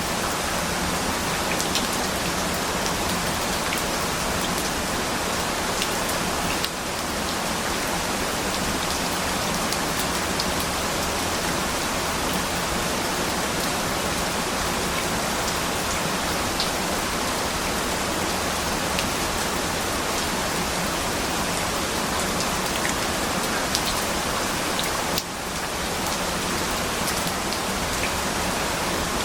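Steady rain falling, a dense even hiss with scattered drops ticking through it. The sound dips briefly about seven seconds in and again near the end.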